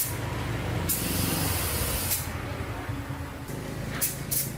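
Spraying hiss in bursts, one lasting over a second starting about a second in and shorter ones near the end, over a steady low motor hum.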